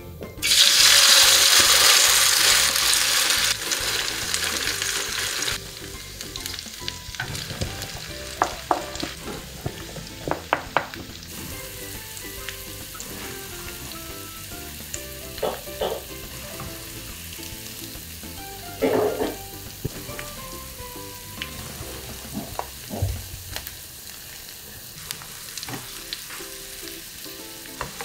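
Potato, ham and leek fritter mixture frying in hot oil in a nonstick pan. A loud sizzle for the first five seconds or so as the mixture goes in, then a steadier, quieter sizzle with scattered light clicks and taps of utensils.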